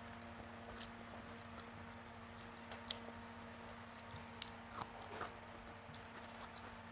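A person chewing a mouthful of rice with ridge gourd in poppy-seed paste, with soft wet mouth clicks and a few sharper smacks about three and four and a half seconds in, over a faint steady hum.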